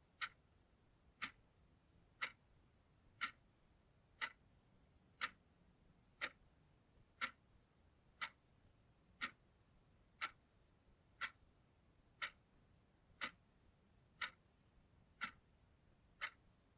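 Clock ticking at one sharp, even tick a second.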